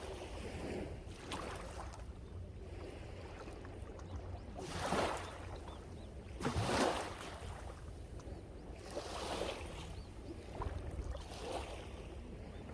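Sea waves breaking and washing on the shore, the surges swelling and fading one after another, the two biggest about five and seven seconds in. A steady low rumble of wind on the microphone runs underneath.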